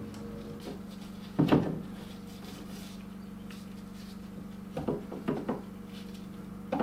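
Several short knocks and clatters of things being handled: one loud knock about a second and a half in, three quicker ones around the five-second mark, and another near the end, over a steady low hum.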